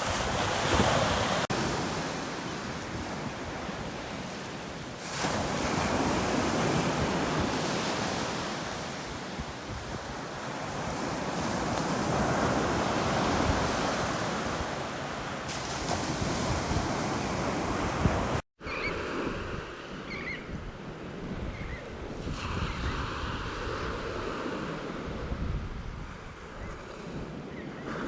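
Ocean waves breaking and washing ashore, swelling and easing every few seconds, with wind on the microphone. About two-thirds of the way through the sound cuts out for an instant and resumes as gentler, duller surf.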